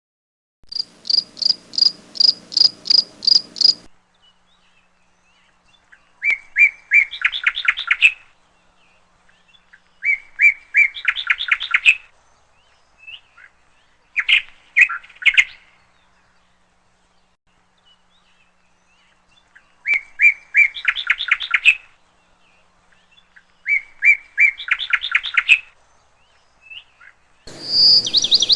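A songbird singing in repeated phrases: first a run of about eight quick high notes, then several phrases of about two seconds each, made of rapid notes that climb in pitch, coming every few seconds with pauses between.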